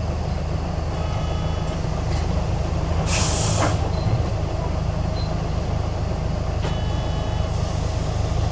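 Isuzu Erga city bus running with a steady low engine drone. About three seconds in comes a short sharp hiss of air, typical of the air brakes, and another softer hiss near the end.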